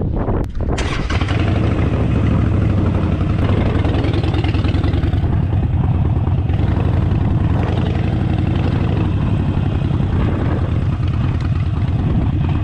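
Harley-Davidson Forty Eight's air-cooled V-twin engine starting about a second in, then running steadily at idle with a low, even rumble.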